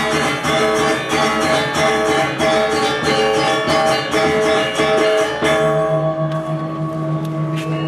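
Balinese gamelan ensemble playing: fast, dense strokes on bronze metallophones over steady ringing tones. About five and a half seconds in the rapid strokes drop away and a few long ringing notes, one of them low, sustain.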